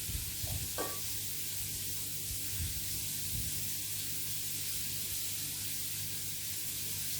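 Steady sizzling of food frying in hot oil, over a low steady hum, with a few faint ticks about a second in.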